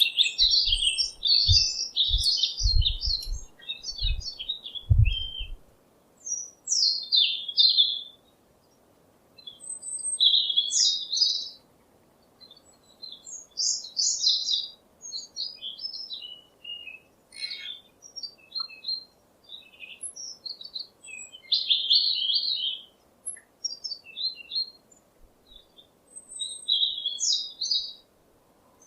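A songbird chirping and twittering in short, quick phrases with brief pauses between them. Several dull low thumps come in the first few seconds.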